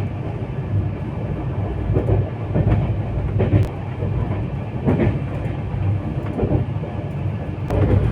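Train running on the rails: a steady low rumble broken by occasional sharp clanks and knocks of the wheels and couplings.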